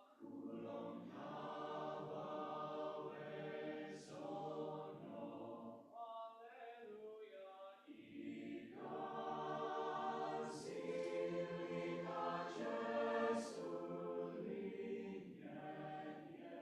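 A choir singing a South African choral song in full chords, thinning to fewer, quieter voices for a couple of seconds in the middle before the full choir comes back in.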